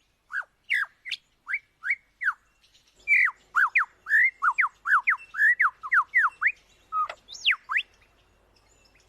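Superb lyrebird singing: a string of loud, clear whistled notes, most sweeping downward in pitch. They come spaced out at first, then in a quicker run from about three seconds in.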